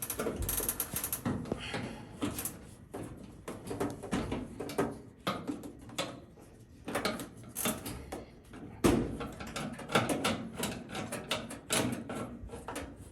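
Irregular clicks, knocks and rattles of metal parts and hand tools being handled while a GE dryer is put back together, the loudest knock about nine seconds in.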